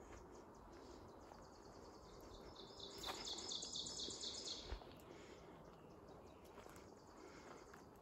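A songbird's trill: a quick run of even, high notes, starting about two and a half seconds in and lasting about two seconds, over a faint outdoor background.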